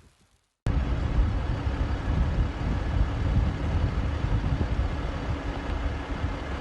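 A motor vehicle's engine running steadily with a low rumble, starting abruptly about half a second in.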